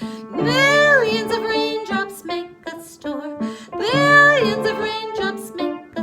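A simple children's song sung by a solo voice over an instrumental accompaniment, with two long held notes, about half a second and four seconds in.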